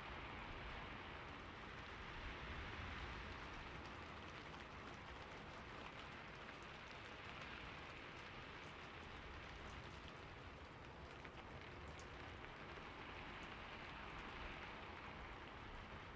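Steady rain falling on a roof, a continuous soft hiss with scattered drop ticks.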